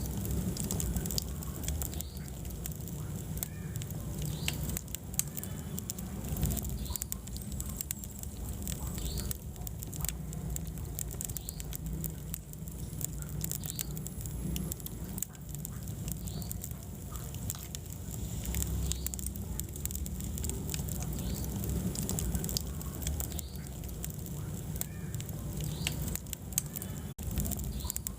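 Wood fire burning in a fireplace, crackling with frequent small irregular pops over a steady low rumble of the flames.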